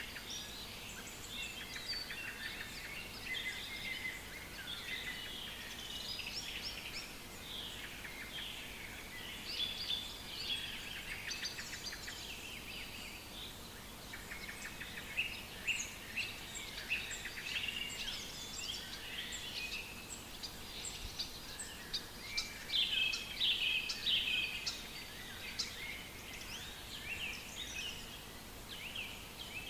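Many songbirds singing over one another in a dense chorus of chirps and trills, busiest a little after twenty seconds in.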